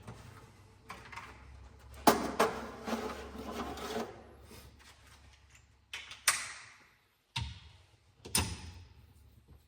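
Clattering and knocking as tools and metal engine parts are handled during an engine bottom-end teardown. There is a dense run of clatter a couple of seconds in, then two sharp knocks that ring on briefly.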